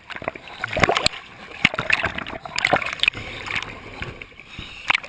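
Sea water splashing and sloshing, broken by many irregular sharp knocks and bumps.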